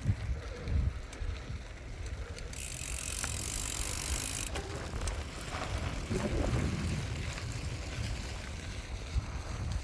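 Gravel bike riding: wind buffeting the microphone over the rumble of tyres on the road, with a burst of hiss lasting about two seconds, starting about two and a half seconds in.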